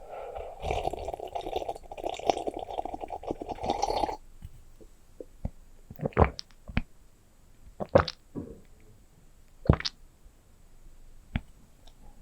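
Close-miked ASMR object trigger sounds: about four seconds of continuous crackly handling noise, then five separate sharp taps spaced a second or two apart.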